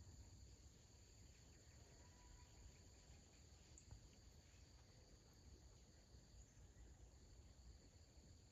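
Near silence outdoors, with a faint, steady, high-pitched insect trill in the background.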